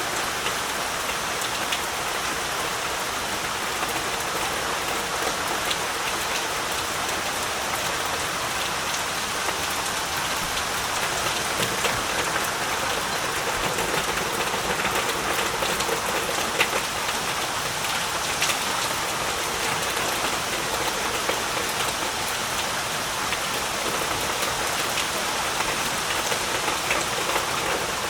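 Heavy rain falling steadily, a dense unbroken hiss with many small scattered drop ticks.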